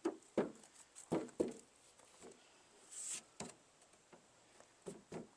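A few faint, scattered clicks and light taps of handling noise, with a short soft hiss about three seconds in.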